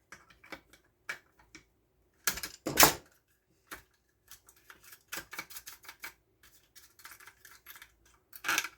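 Small clicks, taps and clatter of hand tools and wiring parts being handled at a workbench, with a louder rattling clatter about two and a half seconds in and a quick run of clicks around five to six seconds.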